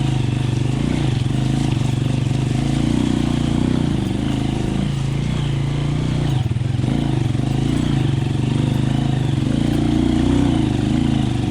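Motorcycle engine running steadily while riding, heard from on the bike, its pitch shifting a little with engine speed near the end.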